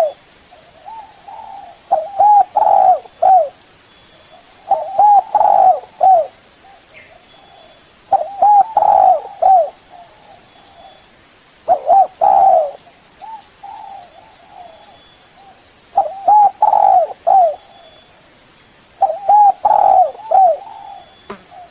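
Spotted dove (tekukur) cooing: loud phrases of three or four coos, repeated about every three to four seconds, with softer coos in between.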